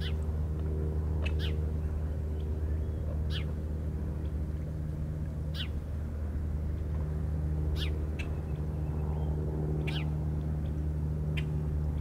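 A bird giving short, sharp calls that sweep downward, about one every two seconds, over a steady low hum.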